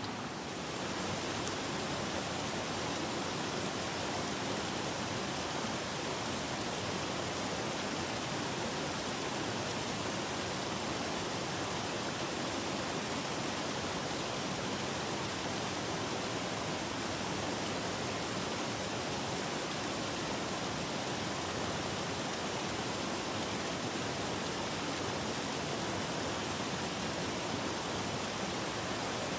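A mountain stream rushing steadily over rocks, a constant noise of flowing water.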